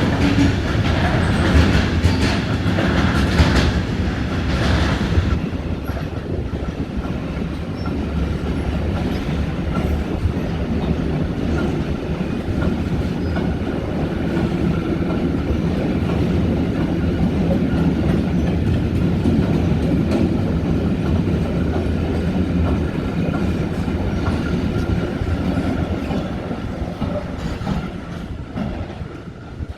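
Train rolling through, wheels clacking over rail joints, busiest and loudest for the first few seconds, then a steady rumble that fades near the end.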